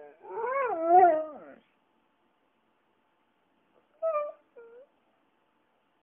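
Dog whining in one long wavering call that rises and falls twice over more than a second, then two short yips about four seconds in, the second lower than the first.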